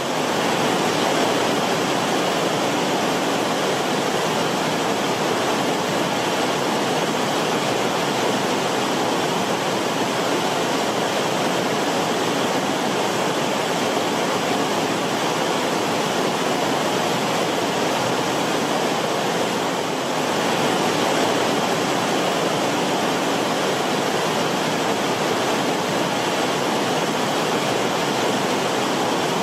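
Creek water flowing and bubbling over rocks in its bed: a steady rushing, rippling flow.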